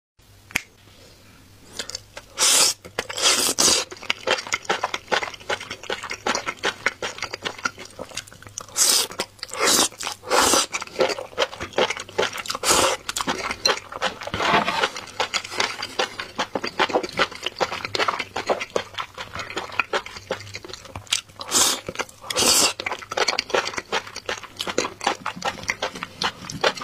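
Close-up wet chewing of enoki mushrooms in thick sauce: dense small squelching clicks, with louder slurps every few seconds.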